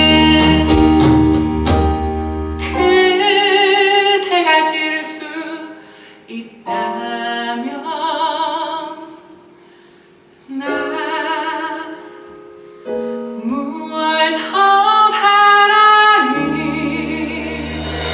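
Live musical-theatre singing: sung phrases with vibrato over instrumental accompaniment, with short pauses between phrases.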